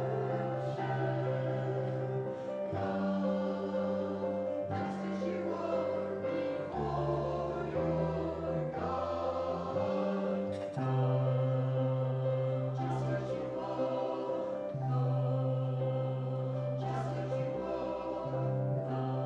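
Church music: a choir singing a hymn over held chords, the harmony changing every couple of seconds.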